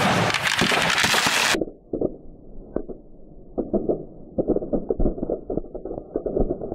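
A pile of dry Christmas trees burning, crackling and popping irregularly and more densely toward the end. It opens with a loud rushing noise that stops suddenly about a second and a half in.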